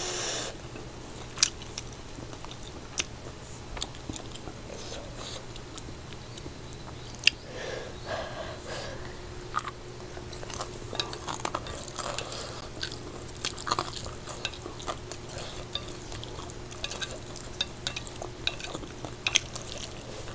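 A person chewing a mouthful of spicy instant noodles, with many scattered small clicks. A low steady hum runs underneath.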